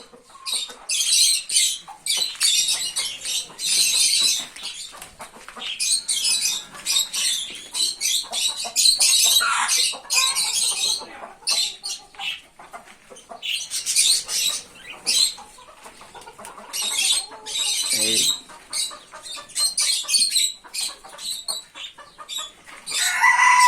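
A flock of birds chattering and chirping in shrill, high bursts with short pauses between them. A rooster starts to crow just at the end.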